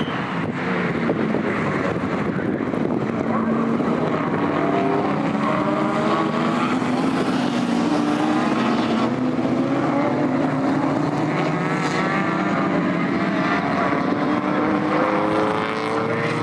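Several historic touring car engines racing at once, their overlapping notes rising and falling with gear changes and acceleration. Several pitches climb together in the second half.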